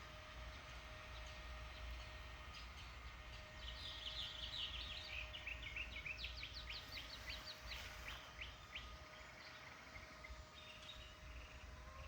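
A songbird singing: a run of quick chirps and rapid falling notes lasting several seconds, with a few fainter chirps near the end, over a faint steady hum.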